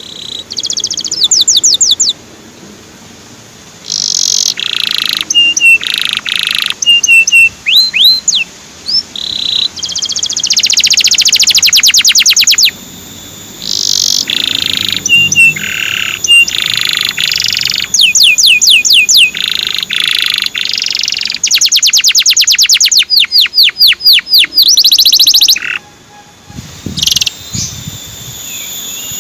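Male canary singing loudly: a long run of high-pitched phrases of fast trills and quickly repeated chirping notes, with a short break near the end.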